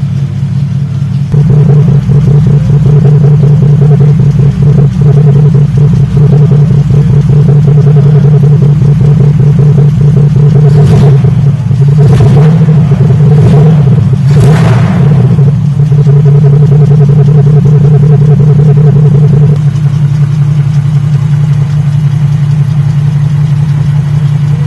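1978 Toyota Crown's 4M straight-six idling through a 4-2-2 header and twin exhaust pipes, with a steady low exhaust note that grows louder about a second in. Between about 11 and 15 seconds in, four quick throttle blips come before it settles back to idle.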